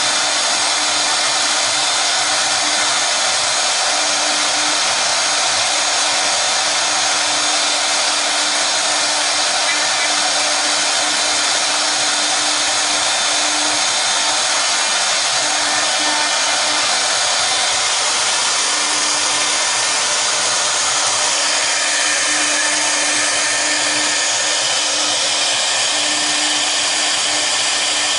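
Spindles of a double-head CNC router running at speed during a job: a loud, steady rushing whine with a constant low hum underneath.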